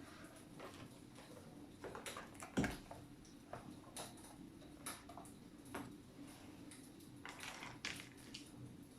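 Wood fire crackling in a fireplace: irregular faint snaps and pops, with one louder pop about two and a half seconds in.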